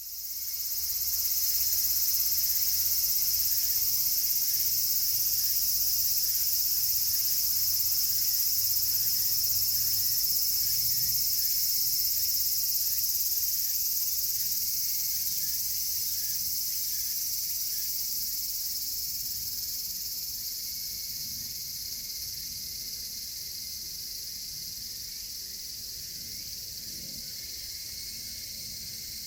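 A dense chorus of cicadas buzzing steadily at a high pitch, slowly growing quieter over the second half.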